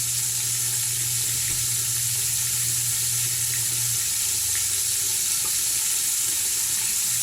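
Steady sizzling of food frying in oil, with a low hum underneath that drops out about four seconds in and comes back near the end.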